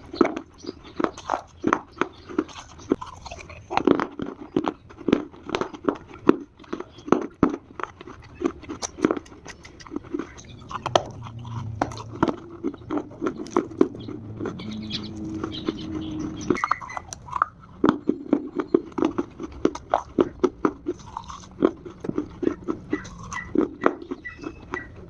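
Close-up crunching and chewing of dry Multani mitti (fuller's earth clay) pieces: rapid, irregular sharp crunches and bites throughout.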